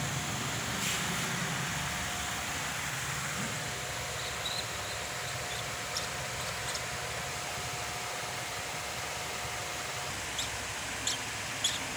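Steady background hiss, with a few short, high-pitched ticks, three of them near the end.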